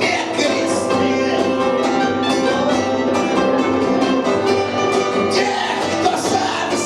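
A punk band playing live, loud and steady, with guitar and held chords.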